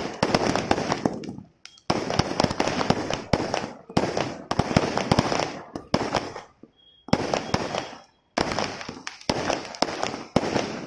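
Aerial fireworks going off in rapid volleys of crackling bangs, each volley lasting about two seconds, with a longer lull of about two seconds past the middle.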